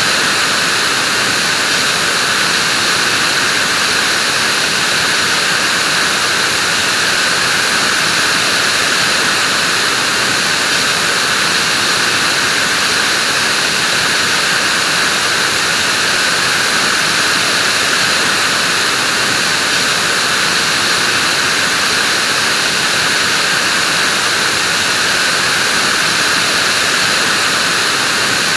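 Vacuum cleaner running at a steady level: an even hiss, strongest in the upper range, with no change in speed or pitch.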